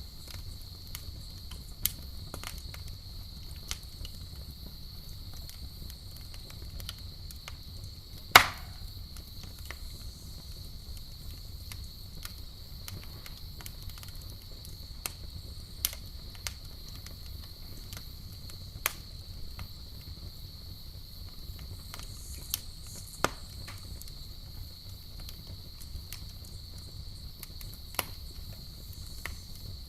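Campfire crackling, with scattered sharp pops, the loudest about eight seconds in, over a low steady rumble and a continuous high trill of night insects.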